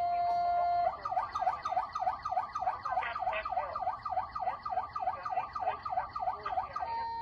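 Emergency vehicle siren. It holds a steady note, then switches about a second in to a fast yelp of about four rising-and-falling sweeps a second, and returns to a steady two-tone call near the end.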